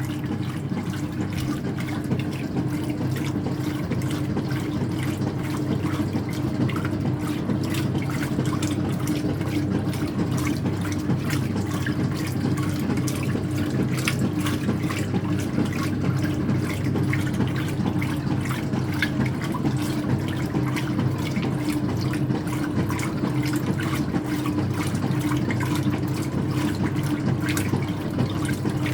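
Speed Queen top-loading washer on its rinse: water sloshing and splashing around the towels over a steady motor hum.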